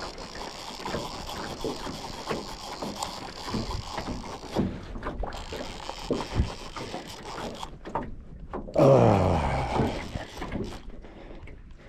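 Knocks, clicks and rattles of fishing gear and a small boat's hull while a large pike is played on rod and reel, with one louder sound falling in pitch about nine seconds in.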